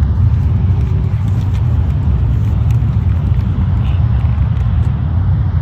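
Airliner jet engines at takeoff thrust during the takeoff roll: a loud, steady low rumble.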